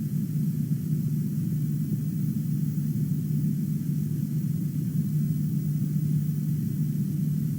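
A steady low rumble, unchanged throughout, with nothing standing out above it.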